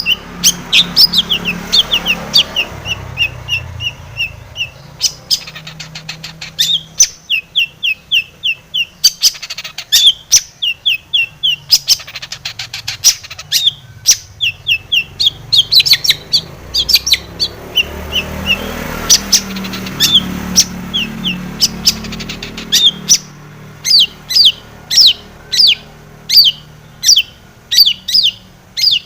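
Long-tailed shrike (cendet) calling: fast runs of short, sharp down-slurred notes mixed with harsh chattering rattles. They give way near the end to single notes repeated about twice a second.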